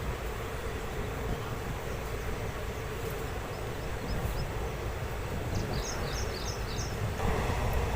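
Deccan Queen express train running on the track, a steady low rumble of wheels and coach. A few faint high chirps come over it about halfway through, then a clearer run of four near the end.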